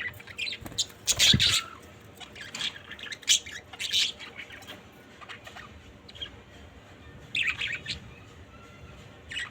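Budgerigars chirping and squawking in short, irregular bursts, busiest in the first half, with a quieter stretch before another burst near the end.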